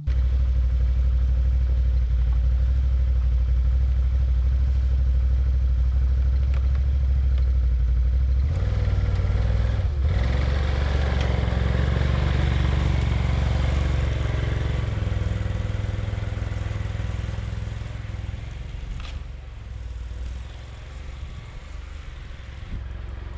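A quad (ATV) engine running steadily with a low, even note. About eight seconds in the note shifts and the engine picks up, with more mechanical clatter. Over the last several seconds it gradually grows quieter.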